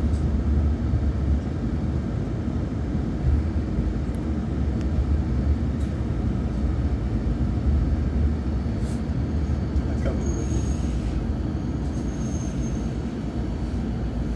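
Interior of a Shimabara Railway diesel railcar in motion: steady low rumble of the engine and the wheels running on the rails.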